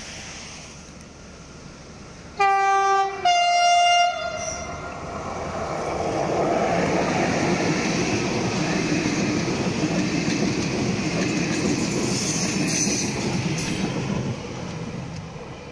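A passing train sounds its two-tone horn in two short blasts, a lower note then a higher one. It then runs by with a loud, steady rolling rumble of wheels on rail, which drops away near the end.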